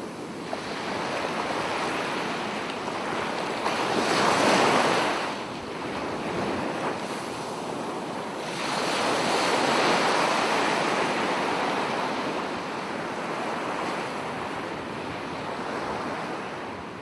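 Ocean waves breaking, the surf swelling and falling back, with a larger breaker about four seconds in and another about nine seconds in.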